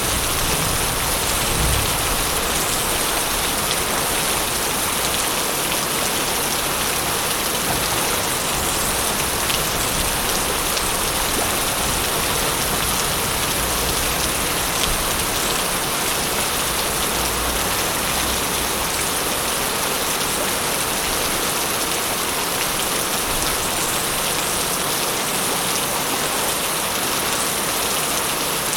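Steady, dense rain falling on surfaces, an even hiss throughout. A low rumble of thunder dies away in the first couple of seconds.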